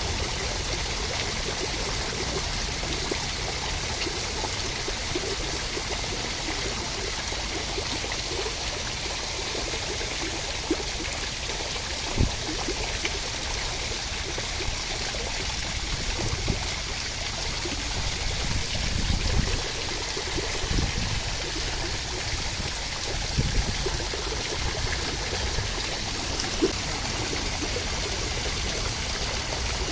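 Steady rain, an even hiss of falling water, with a few brief low thumps in the second half.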